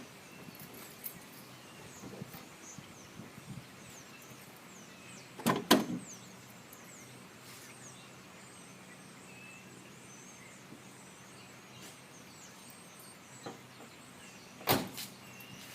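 Two loud knocks about nine seconds apart, the first a quick double knock, over a quiet background with faint high chirps.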